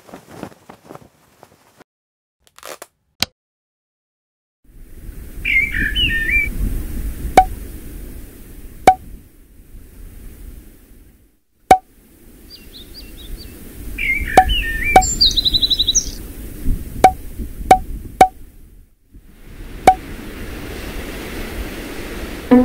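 Birds chirping in short bursts over a low rumbling background, from about five seconds in. About nine sharp knocks, each with a brief ring, are louder than the birds.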